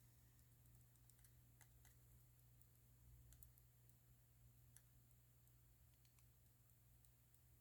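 Near silence: quiet room tone with a low steady hum and a few faint, scattered small clicks.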